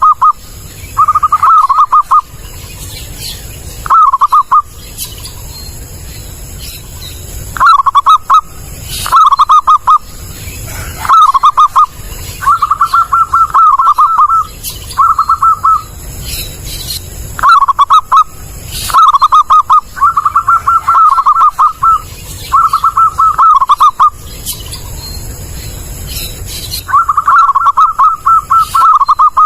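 Zebra dove (perkutut) cooing loudly: short phrases of rapid, pulsing coos around one pitch, repeated every second or two with brief pauses between them.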